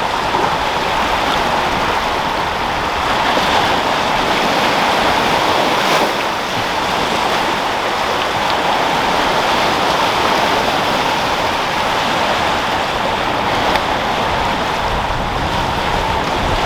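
Sea waves rolling and breaking, with wind: a steady rushing noise with only small swells in loudness.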